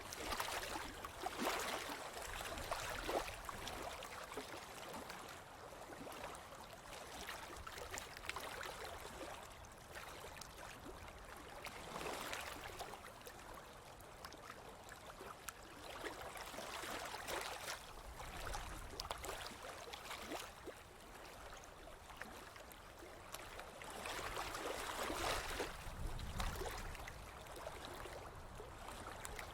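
Ocean waves washing onto a beach: a steady wash of surf that swells louder several times as waves break, with a fine fizzing crackle as the water runs over the sand.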